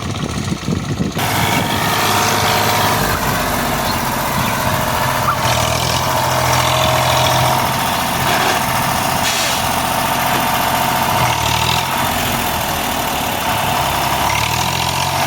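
Tractor diesel engine running hard under load, pulling a stuck tractor out. It revs up sharply about a second in and then holds a steady, loud drone.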